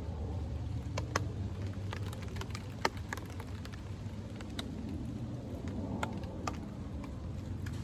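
Scattered raindrops dripping onto a tarp, each drop a sharp separate tick, over a steady low rumble.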